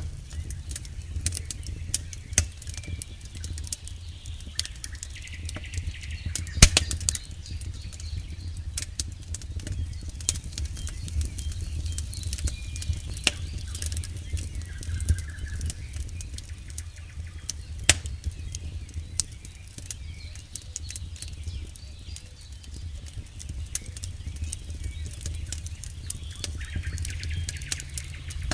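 Campfire burning, the wood crackling and popping in frequent sharp clicks over a low steady rumble; one louder pop about six and a half seconds in.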